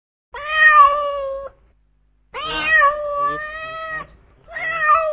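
Cat meowing: three long, drawn-out meows with short pauses between them, the middle one the longest.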